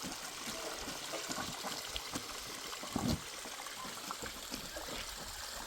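Water trickling steadily, with scattered small clicks and one louder knock about three seconds in.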